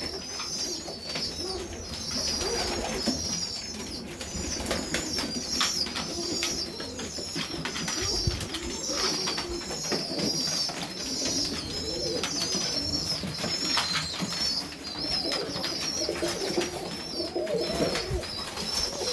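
Loft of Serbian highflyer pigeons: low cooing runs underneath a constant stream of rapid, high-pitched chirping, with scattered light clicks and knocks of birds moving about.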